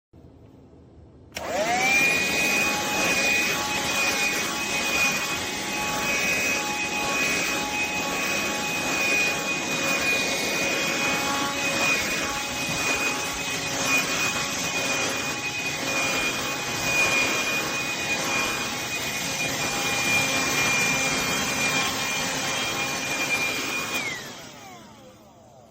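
Black+Decker Dustbuster cordless handheld vacuum switched on, its motor whining quickly up to speed and running steadily with a high whine. Near the end it is switched off and spins down.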